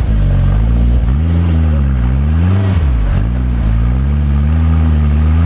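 Locost kit car's turbocharged Nissan CA18DET four-cylinder engine running under way, its revs rising and falling several times in quick succession before settling to a steadier speed.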